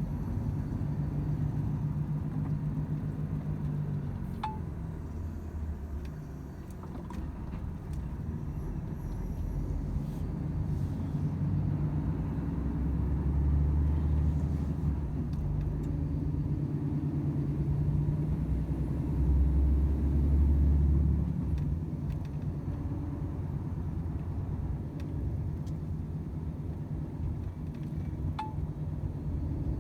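Volvo FH 500 truck's 13-litre six-cylinder diesel running on the road, a steady low drone with tyre and road noise. It swells louder twice, around the middle and again a few seconds later.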